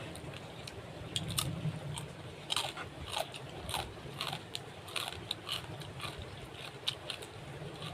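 Close-up eating sounds: irregular crunchy bites and chewing of crisp food.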